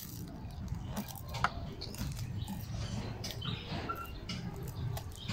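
Chewing and crunching a puffed rice cake (ampaw), with scattered crisp clicks from the bites. A couple of faint bird chirps come about three to four seconds in.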